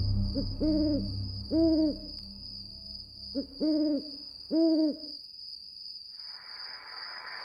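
Owl hooting: two phrases about three seconds apart, each a short lead-in note followed by two long hoots. A steady high whine runs underneath, and a hiss like wind comes in about six seconds in.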